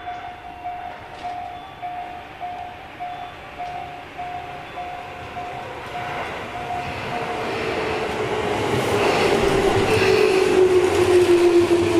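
Railway level-crossing bell ringing in a steady ding-ding about twice a second. An electric commuter train, a Tobu 10030 series, then approaches and the rumble of its wheels on the rails swells. From about eight seconds the train's low whine slowly falls in pitch as it comes past.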